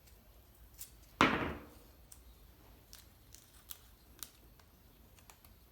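Hands working the wires and pins of a car wiring-harness connector: one louder knock about a second in, then scattered faint clicks and ticks.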